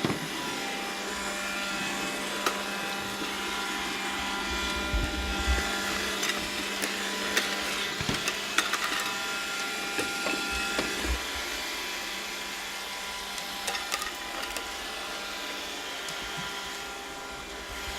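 Roomba robot vacuum running, a steady motor and brush hum with a few fixed whining tones, with scattered clicks and knocks over it.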